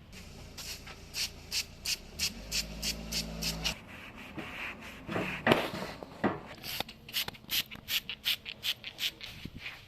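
Rhythmic back-and-forth rubbing strokes by hand, about three a second, working a part. A louder, irregular scrape comes about halfway through, and then the strokes resume.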